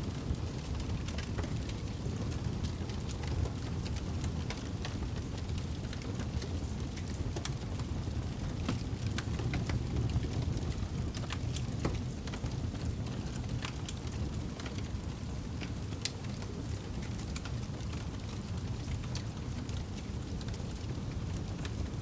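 Campfire burning: a steady low rumble of flames with many scattered sharp crackles and pops from the burning wood.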